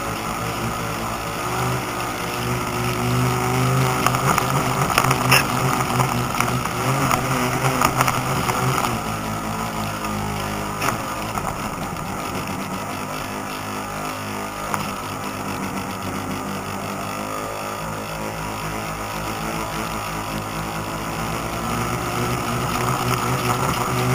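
Boat motor running steadily over water, with a hum that is strongest for the first several seconds and eases off about nine seconds in, along with water noise and scattered small splashes.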